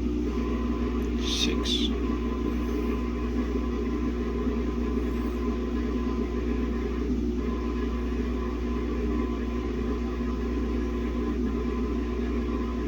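Samsung WA50R5200AW top-load washing machine running its spin with a single pair of pants inside, a steady motor hum over a low rumble. Two brief high hisses come about a second and a half in.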